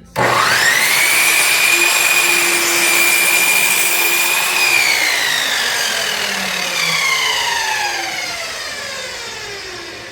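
Electric power saw switched on and spinning up sharply, running at a steady high whine for about four seconds while cutting through a wooden board, then switched off about five seconds in, its blade winding down with a falling whine that fades away.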